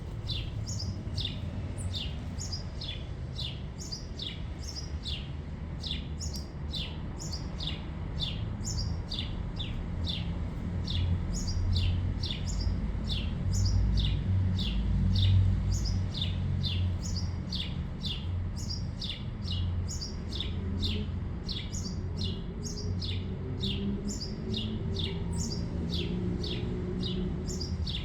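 Small bird chirping over and over: short, high chirps that each drop in pitch, about two a second without a break. A steady low rumble runs underneath, louder about halfway through.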